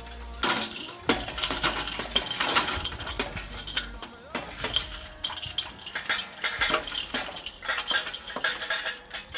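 Metal utensils clinking and scraping against pots and dishes in a quick, irregular run of sharp knocks and scrapes.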